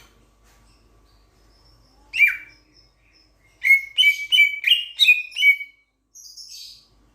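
Raja perling (Sulawesi myna) calling loudly: one call that falls in pitch, then after a short pause a run of six sharp, clipped notes at about three a second, ending in a fainter raspy note.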